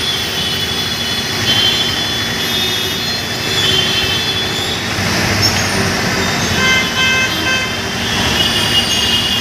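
Busy street traffic: a steady rumble of vehicles with short horn toots sounding now and then.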